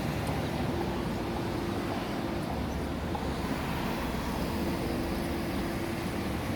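Steady low hum of vehicle noise with a faint held tone running through it.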